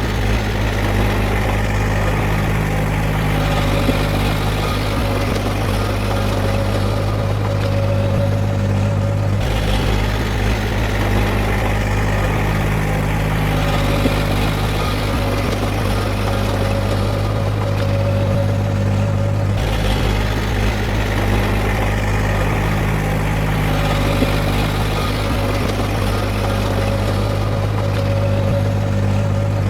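Heavy diesel engine of earthmoving machinery running steadily, a deep drone with a mid-pitched hum above it. The sound changes abruptly twice, about ten and twenty seconds in.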